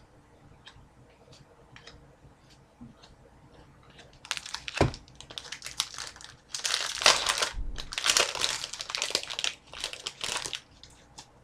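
A foil trading-card pack wrapper being handled and torn open, crinkling in bursts that start about four seconds in and stop shortly before the end, with a single knock near the start of the crinkling.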